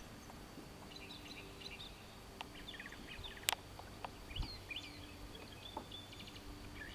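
Faint songbirds chirping and trilling in short scattered phrases, with a single sharp click about three and a half seconds in.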